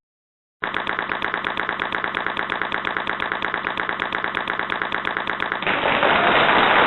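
A rapid, evenly spaced rattle of clicks, like a machine-gun burst. About five and a half seconds in, it gives way to a steady hiss like static.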